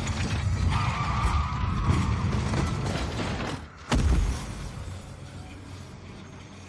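Film car-chase sound effects of racing cars with engines running and tyres skidding. About four seconds in there is a sudden loud bang, after which the sound fades away.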